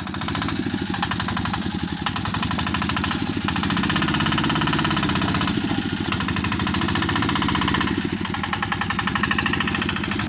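Small DC motor running a homemade model's gear mechanism, a fast, steady rattle of even ticks.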